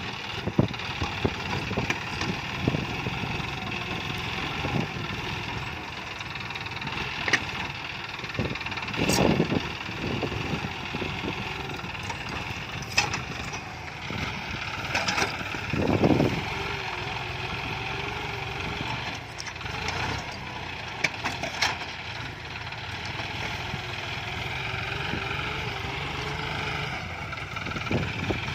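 John Deere farm tractor's diesel engine running steadily while it pulls a disc plough slowly through stump-filled ground, with occasional knocks and thumps.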